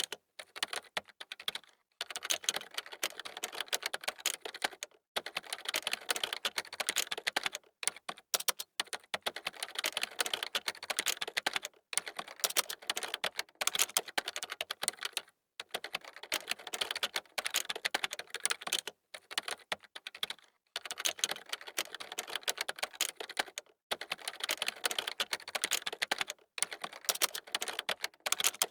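Fast typing on a computer keyboard: dense runs of key clicks lasting a few seconds each, broken by short pauses.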